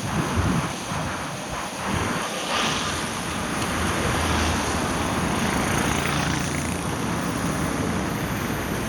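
Car driving on a wet road in rain: a steady hiss of tyres and rain over a low road and engine rumble.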